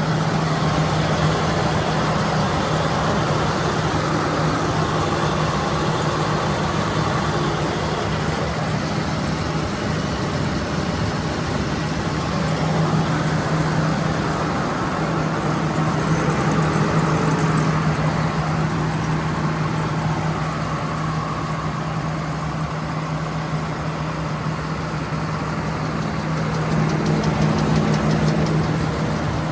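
Case IH 7130 combine harvester's diesel engine running steadily, a constant even drone; very smooth-running. The loudness swells slightly now and then, but the engine note stays the same.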